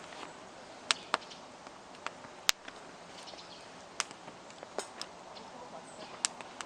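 Wood campfire burning, with irregular sharp pops and cracks from the burning wood over a faint steady hiss.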